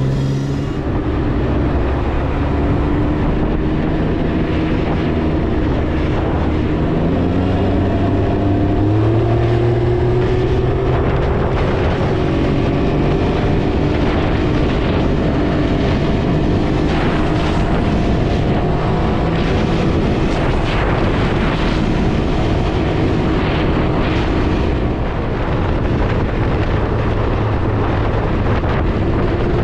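Can-Am Ryker 900's three-cylinder engine pulling under way, its pitch climbing over the first several seconds as it speeds up and then holding at cruise, over a steady rush of road and wind noise.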